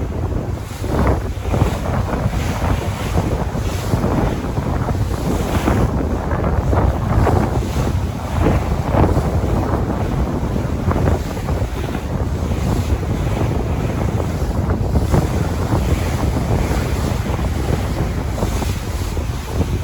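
Sea waves washing and splashing, with wind buffeting the microphone as a constant low rumble.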